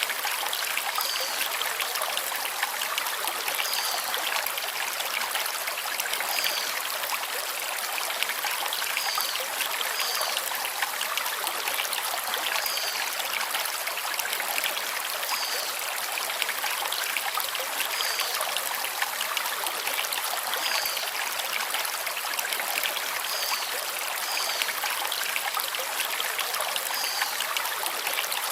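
Forest stream running over river stones, a steady rushing, with a bird giving a short high chirp every two seconds or so.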